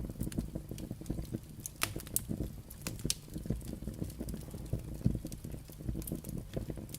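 Firewood burning with a steady low rumble of flame and irregular crackles and pops, a few of them sharper snaps.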